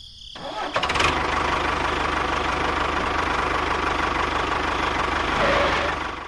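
A small engine running steadily with a fast, even chug. It comes in about a second in and stops abruptly at the end.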